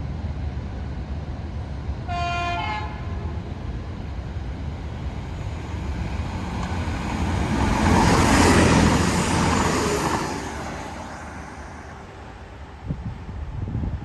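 A passing train sounds its horn briefly about two seconds in, two short notes with the second higher. The train then passes at speed: its running noise rises to a peak about eight to nine seconds in and fades by about eleven seconds.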